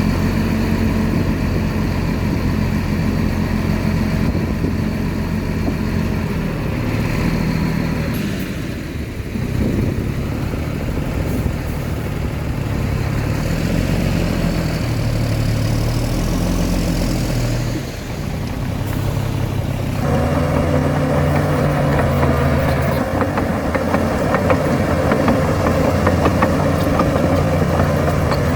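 Diesel engines of earthmoving machinery running under varying load. The engine note shifts several times, dipping briefly about 9 and 18 seconds in and turning fuller and busier about 20 seconds in.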